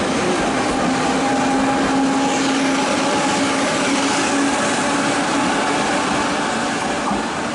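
TRA push-pull Tze-Chiang express train (E1000 series) running past close by as it pulls away from the platform: a steady loud rumble of the cars on the rails, with a low hum through the first half. The level drops slightly near the end as the rear locomotive goes by.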